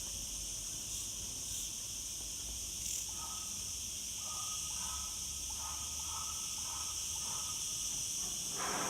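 Cicadas singing: a steady, high-pitched buzz without a break. A brief louder noise comes near the end.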